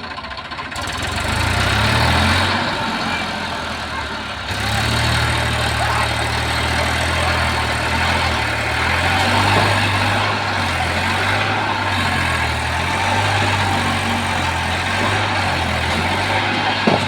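Eicher 380 tractor's diesel engine running, a low steady throb that steps up in level about four and a half seconds in.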